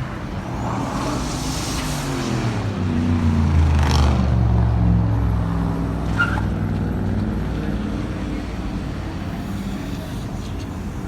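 A car's engine grows louder, peaks about four seconds in, then fades away with its pitch falling, like a car driving past.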